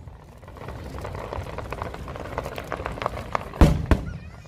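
Fireworks: a dense run of small crackling pops, then two loud bangs close together about three and a half seconds in.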